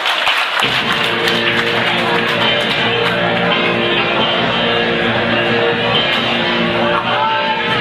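A Northern Soul record playing over a club sound system, with guitar prominent. The bass comes in suddenly about half a second in, as if a new record has just started.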